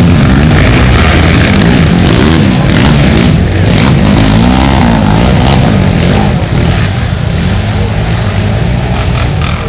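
Racing ATV engines revving hard, rising and falling in pitch again and again as the quads pass close by; it gets somewhat quieter about six seconds in.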